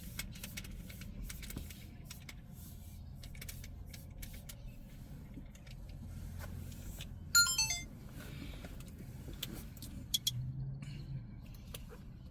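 Vehicle engines idling with a steady low rumble, under scattered sharp clicks. A brief, sharp, falling chirp about seven seconds in is the loudest moment.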